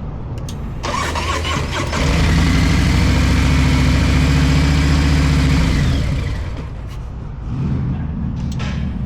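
Motorcycle engine starting about a second in, then running loud and steady for a few seconds before dropping back to a lower running sound.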